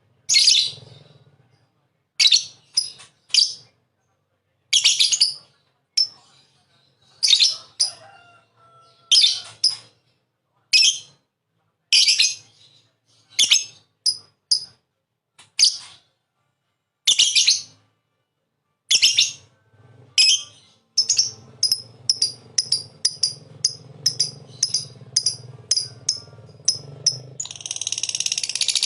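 Lovebird calling with sharp, high chirps in short clusters a second or two apart. After about twenty seconds the chirps quicken into a rapid string, and near the end they run together into a long, fast trill.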